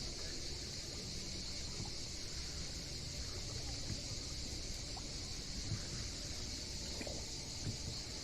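Sea water washing and lapping steadily, with a few soft knocks, under a constant high, even hiss.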